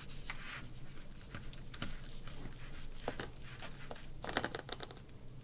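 Soft, wet mouth clicks and smacks of someone chewing a bite of rotisserie chicken, with a quick run of smacks about four seconds in.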